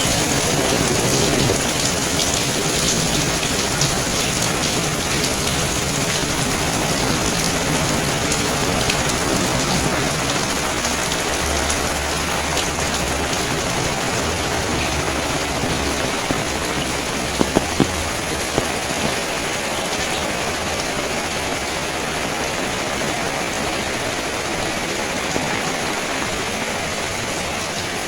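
Steady rain falling and splashing on hard surfaces, an even hiss that holds at one level, with a few sharp drips or ticks about two-thirds of the way through.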